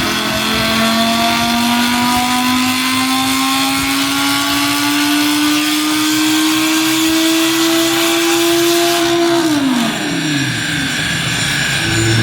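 Audi R8's 5.2 V10 engine pulling at full throttle, its pitch climbing slowly and steadily through the revs. About nine and a half seconds in it lets off and the revs fall quickly, settling to a lower steady note near the end.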